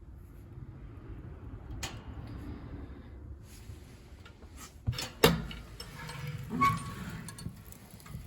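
Wood-burning stove: a few sharp metallic knocks and a clink, the loudest a little past halfway, followed by a short clatter with a brief ring, against a low steady rumble.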